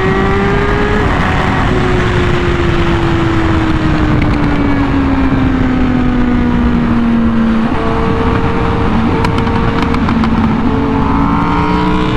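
Honda Fireblade RR-R SP's inline-four engine through an SC Project exhaust at high speed, its note rising for about a second, dropping at an upshift, then sliding slowly down as the bike rolls off. About eight seconds in a second, higher engine note comes in, over steady wind rush.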